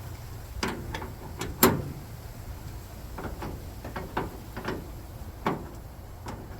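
Wrench clinking and knocking against bolts and metal parts as nuts are worked on: a string of irregular sharp clicks, the loudest about a second and a half in.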